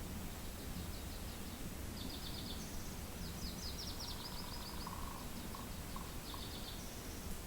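Songbirds singing short, rapid trilled phrases again and again over a steady low rush of wind.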